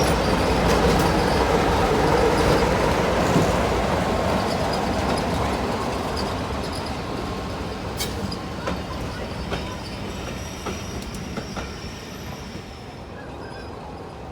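Train running on the rails with wheels squealing, the noise dying away steadily. Scattered sharp clicks come through in the second half.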